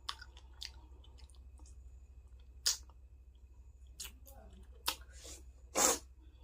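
A person eating close to the microphone: a few scattered mouth smacks and clicks of chewing, the loudest a short crunchy burst about six seconds in.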